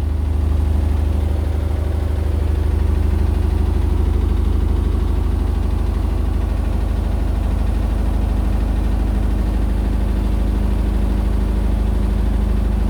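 Indesit BWE101683 washing machine spinning fast with an unbalanced load, the cabinet shaking and rattling with a steady low rumble that sounds like a train. The owner puts the shaking down to the unbalanced load and the uneven floor under the machine.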